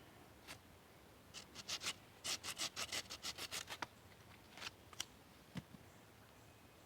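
Hand saw cutting through a thin wooden stick: a run of quick, short strokes for a couple of seconds, then a few light clicks of the wood being handled.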